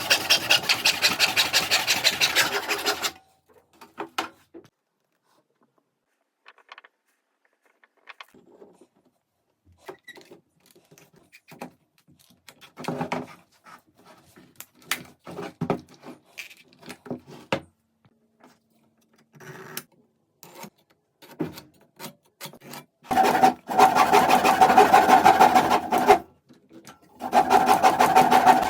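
A small electric power tool working wood in three bursts of a few seconds each, with light knocks and handling of wooden pieces in the quieter stretch between.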